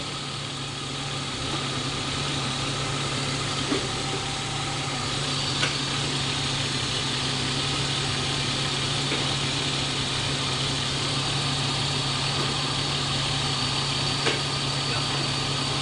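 BMW E36 320's M52 B20 straight-six idling steadily while still misfiring on one cylinder, with a few faint clicks.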